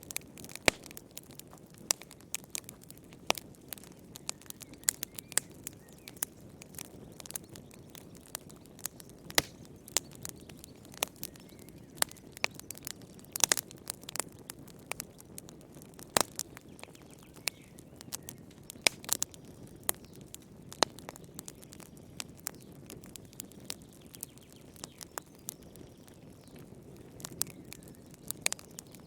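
Fireplace fire crackling: irregular sharp pops and snaps, a few each second, over a soft low rumble of flame.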